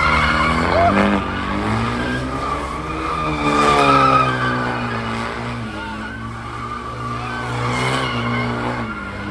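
Car engine revving up and down as the car is drifted, with tyre squeal; the pitch climbs to its loudest about three to four seconds in, then eases off.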